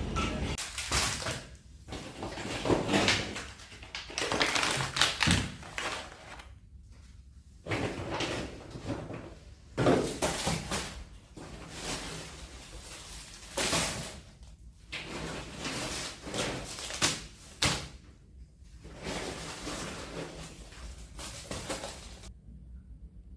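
Household handling sounds in a small room: irregular knocks, bumps and rustling of things being moved, in short stretches that break off abruptly several times, then near silence for the last second.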